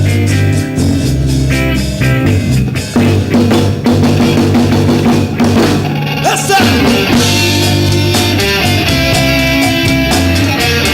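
Live rock band playing an instrumental passage: electric guitar with bass and drum kit, with a guitar note bending upward about six seconds in.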